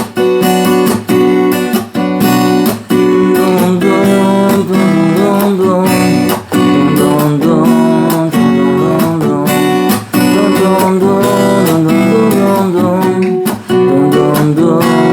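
Acoustic guitar strummed in a steady rhythm, an instrumental passage of chords between sung verses.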